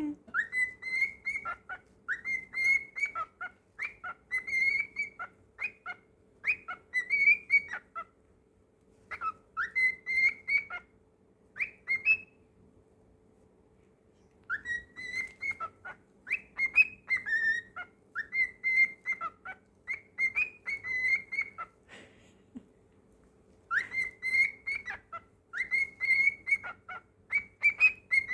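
Cockatiel whistling a song: phrases of quick whistled notes around one pitch, broken by short pauses, with two longer breaks of a second or two.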